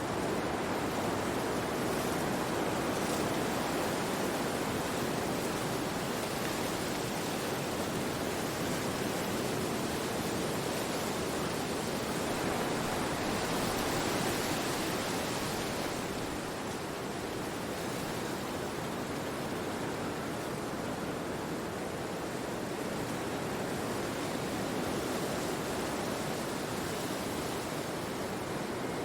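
Wind blowing through forest trees: a steady rushing sound that swells a little about halfway through, then eases.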